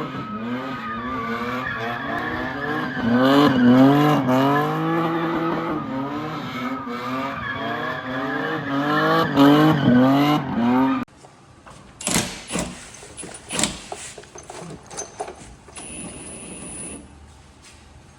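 1997 BMW E36 engine revving hard, its pitch climbing and dropping again and again. About eleven seconds in the sound cuts off abruptly to quieter scattered clicks and knocks.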